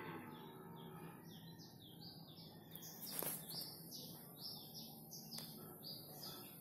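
A songbird singing a quick series of short falling whistled notes, about three a second, with a couple of faint clicks.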